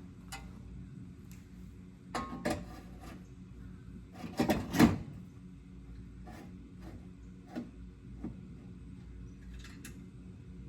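Scattered knocks and clatters of parts and tools being handled, loudest in a cluster about four and a half seconds in, over a steady low hum.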